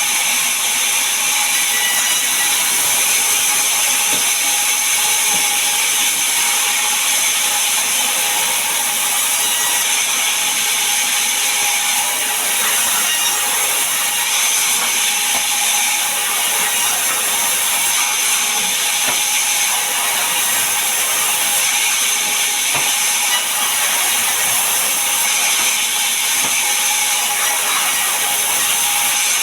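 Sawmill saw running steadily through a large mahogany log: a constant loud, hissing rasp with a few steady high-pitched whining tones held over it.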